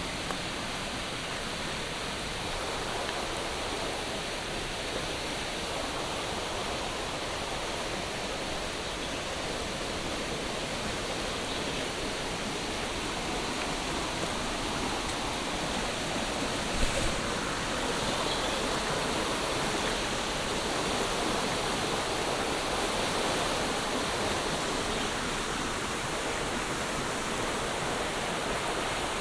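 Steady heavy monsoon rain, an even hiss with one brief knock partway through.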